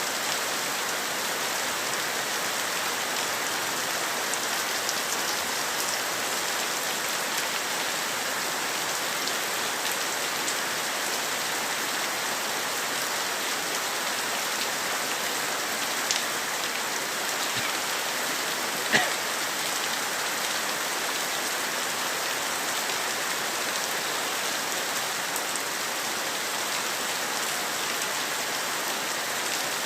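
Heavy rain falling in a steady hiss, with two brief sharp ticks past the middle.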